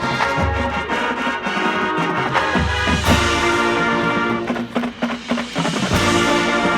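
High school marching band playing: brass chords held over repeated low drum hits.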